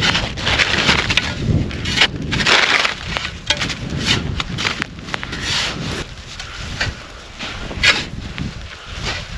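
Irregular crunching and snapping, with scraping between the snaps, coming in uneven bursts.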